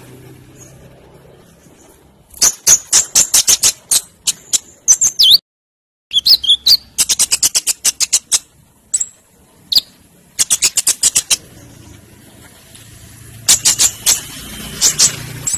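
Olive-backed sunbird (konin) singing loudly: bursts of rapid, sharp, high metallic chips and trills, with a sudden total dropout of about half a second partway through.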